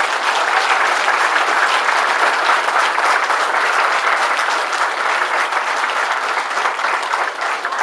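Audience applauding: many people clapping together, loud and steady, easing off a little near the end.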